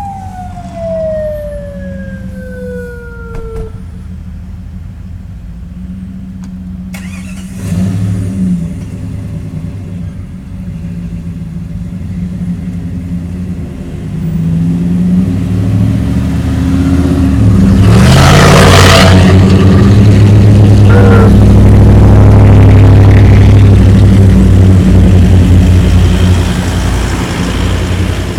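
Off-road vehicle engine running and revving, growing louder about halfway through and holding at full volume for several seconds, with a short rushing burst as it peaks. A siren-like tone falls in pitch over the first few seconds.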